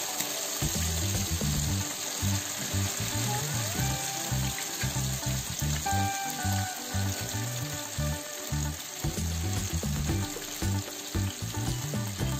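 Marinated chicken pieces deep-frying in hot coconut oil, a steady sizzle and bubbling throughout. Background music with a pulsing beat plays underneath.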